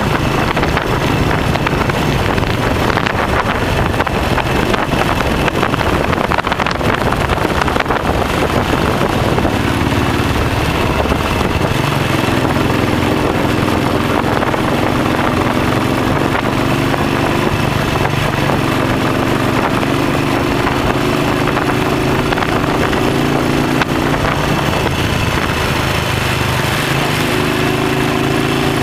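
Royal Enfield single-cylinder motorcycle engine running at road speed, heard from the moving bike over heavy wind noise on the microphone. From about ten seconds in, the engine note rises slightly in pitch several times as the throttle opens.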